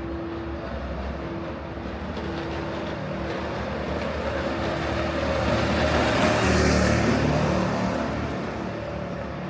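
A motor vehicle passing close by on a city street, growing louder to a peak about two-thirds of the way through and then fading, over a steady hum.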